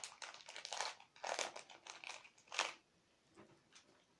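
Crinkling, handled by hand: a quick run of irregular crackles for about two and a half seconds, then only a few faint rustles.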